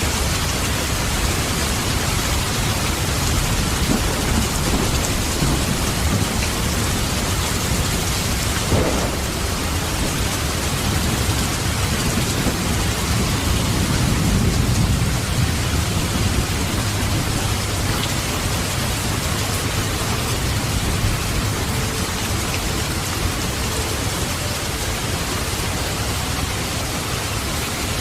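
Steady heavy rain falling, with a low rumble of thunder that swells about halfway through. There is one short, sharper sound about nine seconds in.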